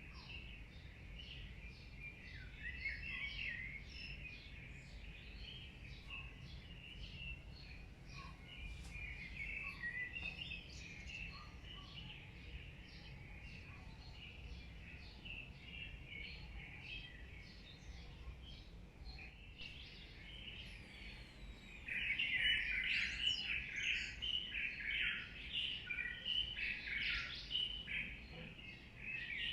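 Several birds chirping and singing at once in quick short calls, growing louder and busier about three-quarters of the way through, over a low steady background hum.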